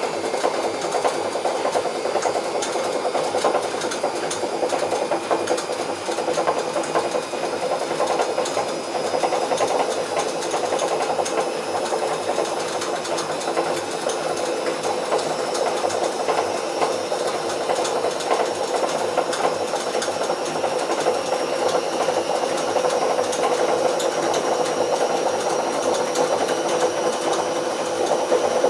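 Bauknecht WA Plus 844 washing machine running with a steady mechanical noise from its turning drum, with a faint high whine that rises slowly. The drum bearing is damaged.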